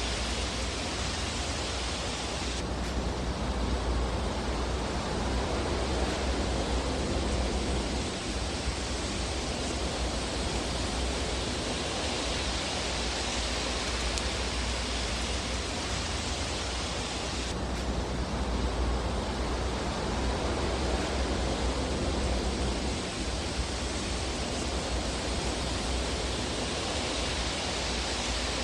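Fire burning in a fireplace: a steady rushing hiss over a low rumble, slowly swelling and easing.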